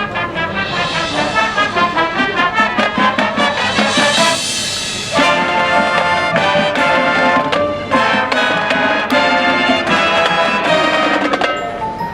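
Marching band playing: brass and percussion in short, rhythmic hits, swelling about four seconds in, then moving into held brass chords.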